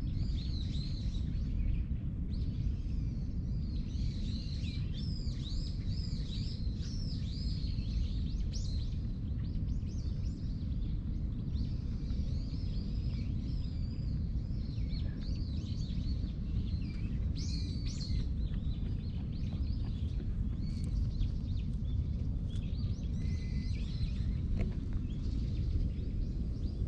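Small birds chirping over and over, short high calls throughout, over a steady low rumble of outdoor background noise.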